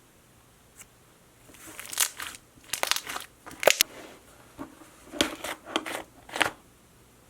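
Hands squeezing and pressing slime, giving a run of crackly, crunching pops over about five seconds before it goes quiet.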